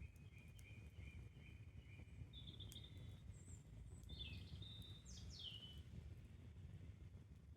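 Campfire burning quietly with a low steady rumble and a few faint crackles, while birds call in the background: a run of short repeated chirps at the start, then several higher calls and quick downward-sweeping notes over the next few seconds.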